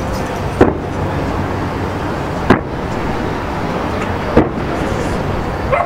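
Fireworks display: four sharp booms of bursting shells, about two seconds apart, over steady background noise.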